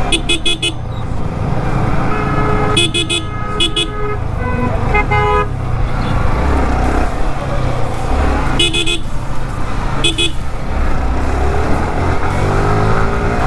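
Several short vehicle horn honks in traffic, some in quick pairs and at more than one pitch, over the steady rumble of a motorcycle ride.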